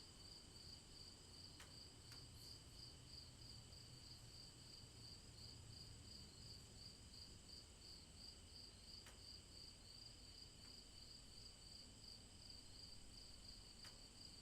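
Faint night insects, crickets, chirring in a continuous, evenly pulsing high trill, with a few faint isolated ticks.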